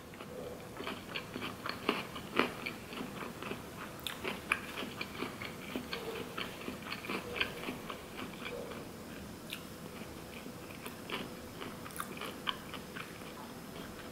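Close-up chewing of a nori-wrapped sushi burrito: irregular wet mouth clicks and smacks, thick in the first half and thinning out later.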